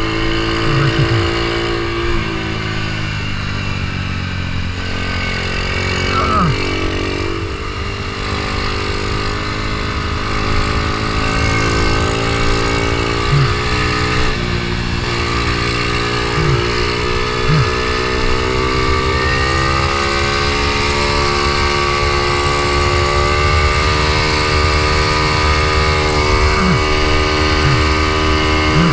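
Ohvale mini GP bike's engine under racing load, heard on board: the engine note dips twice, around six and fourteen seconds in, then climbs slowly through the rest as the bike accelerates.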